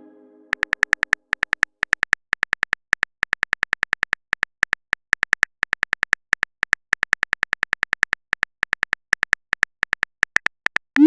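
Phone keyboard typing sound effect: a fast, slightly uneven run of short clicks, about six or seven a second. Near the end a short rising chime begins.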